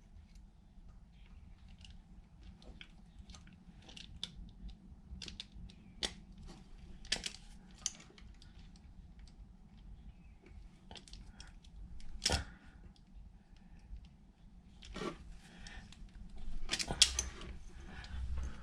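Scattered small clicks and taps of a hand crimping tool closing insulated female disconnect terminals onto 12-gauge wire. The sharpest click comes about twelve seconds in, over a faint steady low hum.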